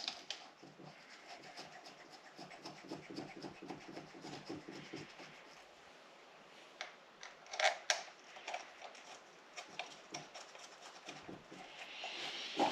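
Faint light metallic clicks and rubbing as the thermostat housing bolts on a Subaru EJ25 engine are reinstalled, with a few sharper clicks about eight seconds in.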